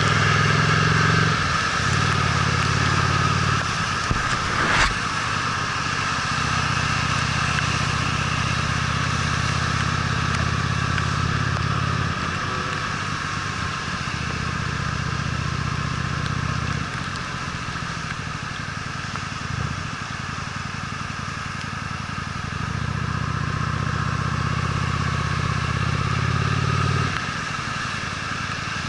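Honda Steed V-twin motorcycle engine running on the move, pulling strongly in stretches and easing off between them as the throttle opens and closes. A single sharp click comes about five seconds in.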